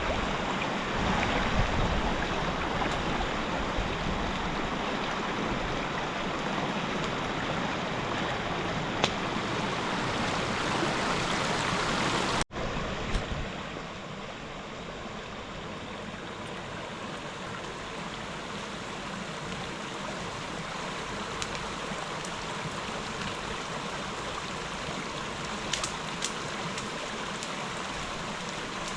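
Steady rushing of a flowing river. About halfway through the sound cuts off abruptly and resumes a little quieter, with a few faint clicks.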